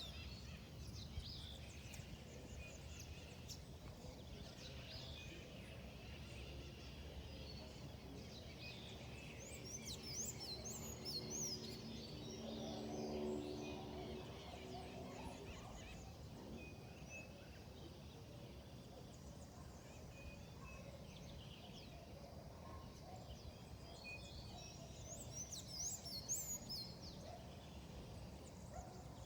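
Wild birds calling and chirping in a forest over a steady low background rumble, with two quick flurries of high chirps, one in the first half and one near the end. About halfway through, a lower pitched call rises out of the background for a few seconds.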